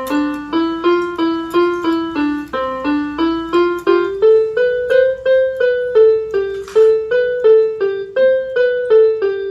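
Electronic keyboard playing a simple one-note-at-a-time melody at a steady pace of about three notes a second, a beginner's lesson piece. The melody climbs over the first half and works back down towards the end.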